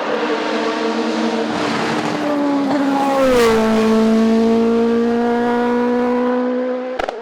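Hillclimb race car at full throttle passing by. The engine's pitch drops sharply as it goes past, about three and a half seconds in, then holds steady as it moves away.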